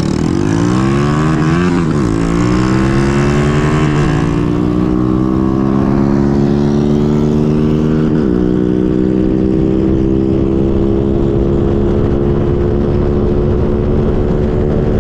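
Small single-cylinder mini bike engine accelerating hard, its pitch climbing and dropping with each upshift, three times, then held high and creeping up slowly in top gear. Wind rumble underneath.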